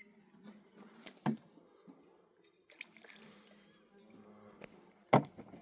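Water splashing and dripping, with scattered knocks from things being handled and one louder knock near the end.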